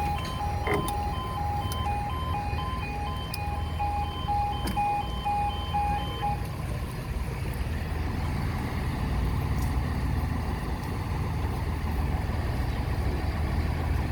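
Level crossing warning alarm sounding in rapid on-off pulses of two alternating tones, cutting off about six seconds in. A steady low rumble runs underneath and grows a little louder after the alarm stops.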